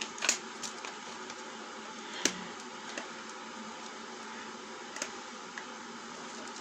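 Handling of the vacuum cleaner's plastic parts: a few sharp clicks and knocks, the loudest about two seconds in, over a steady background hiss.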